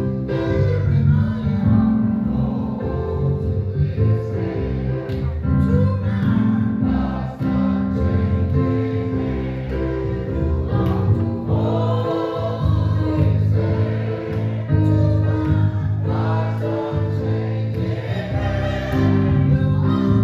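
Congregation or choir singing a gospel hymn with instrumental accompaniment.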